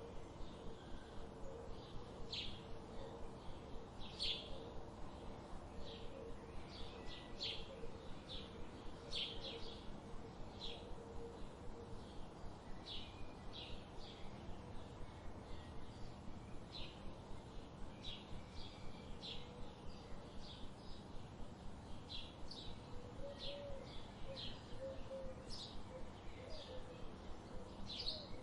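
Wild songbirds chirping: short, high chirps repeat about once a second over a steady background hiss.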